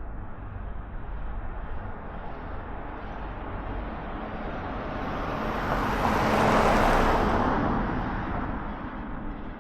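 A vehicle passing close by: its noise swells, peaks about two-thirds of the way through, then fades away, over steady background traffic hum.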